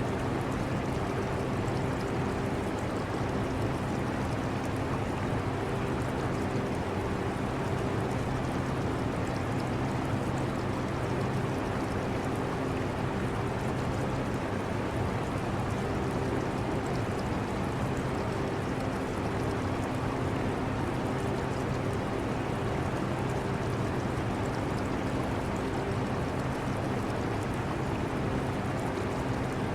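Portable air conditioner running with a steady rush of air and a low hum that wavers slightly, mixed with the trickle of aquarium water.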